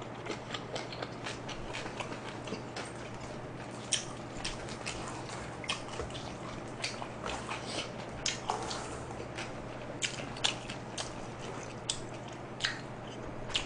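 Close-miked eating sounds: chewing pizza, with many short, irregular wet clicks and smacks of the mouth and gloved hands handling the food.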